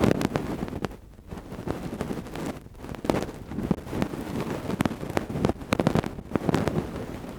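Ear-cleaning ASMR: tools scraping and rubbing close against a microphone, making irregular crackles, scratches and soft knocks.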